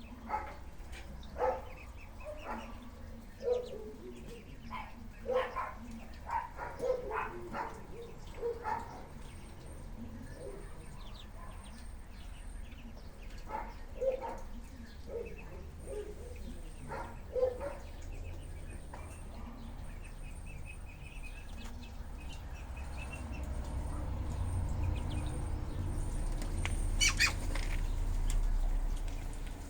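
Ducks giving short calls, many in a row over the first two thirds, then fewer. Later a low rumble builds, with a sharp click near the end.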